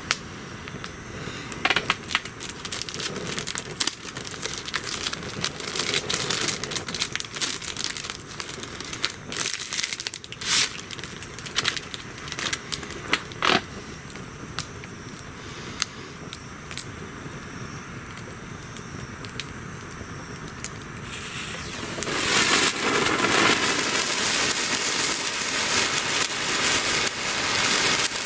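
Wood campfire crackling, with scattered sharp pops over a low hiss. About three-quarters of the way through, a much louder steady hiss sets in and continues.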